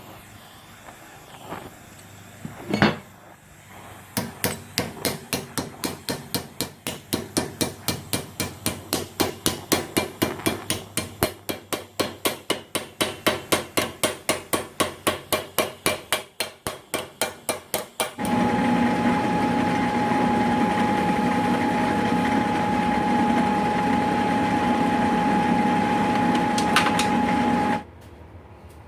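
Steady hammering, about three blows a second, after a single knock. A small engine then runs steadily with a constant hum and cuts off suddenly near the end.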